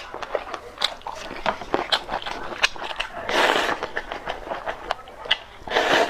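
Close-miked eating: wet chewing with many sharp mouth clicks and smacks, and two longer slurps, one about three seconds in and one near the end.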